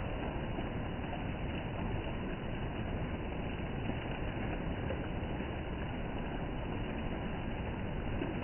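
Steady rain falling: an even, unbroken rushing noise.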